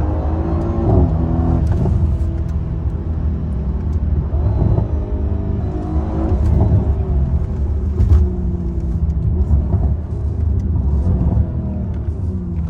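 Mercedes-AMG C63 W205's twin-turbo V8 and exhaust under way, rising and falling in pitch as it accelerates, backs off and shifts, over a steady low rumble. There are a few short crackles, the loudest about eight seconds in.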